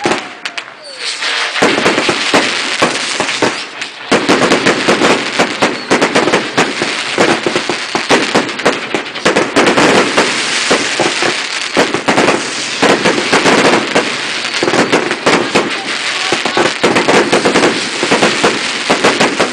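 Fireworks firing in a dense, rapid barrage of bangs and crackles, starting about a second and a half in and going on without a break, with a brief lull about four seconds in.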